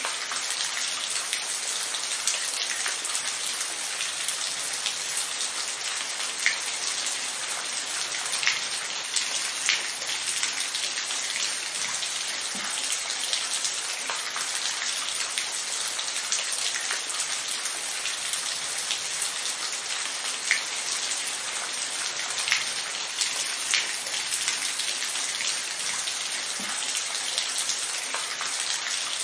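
Steady rain falling, an even hiss with scattered louder individual drop ticks.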